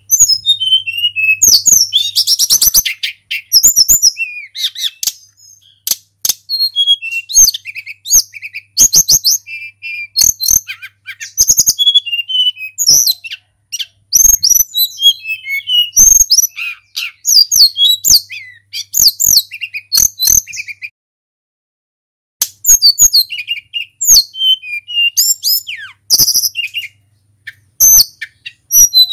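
Tledekan gunung singing: a fast, continuous run of high whistled and chirping phrases, breaking off for about a second and a half near the end before starting again.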